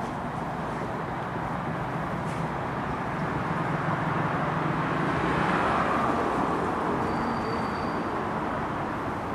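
Steady rumble of a passing vehicle, swelling gradually to a peak about six seconds in and then easing off, with a faint thin high whine briefly near the end.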